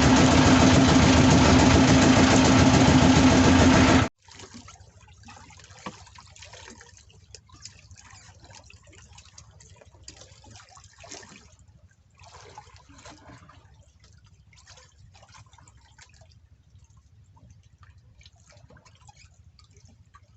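Boat engine running steadily, which cuts off abruptly about four seconds in. After that come faint small splashes, drips and clicks of liquid being poured, as coffee is made.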